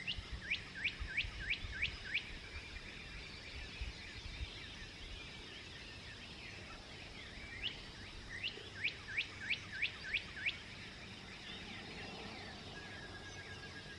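A songbird singing a quick run of about seven sharp notes, each falling in pitch, twice: at the start and again about eight seconds in. A low steady background rumble runs underneath.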